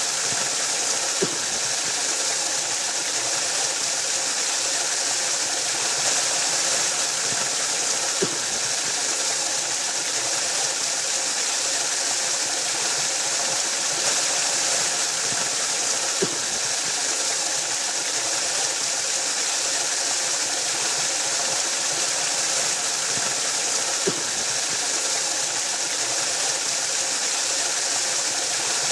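Waterfall rushing in a steady, even roar of falling water, with a faint click about every eight seconds.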